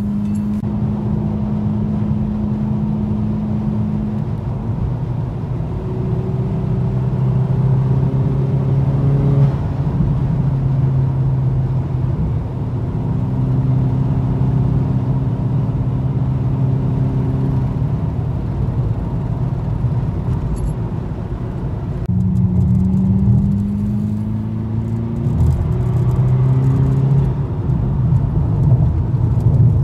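Volkswagen MK6 GTI's turbocharged 2.0-litre four-cylinder engine and exhaust under way on the road, droning steadily with road noise. The pitch steps with gear changes and climbs in two pulls of acceleration near the end.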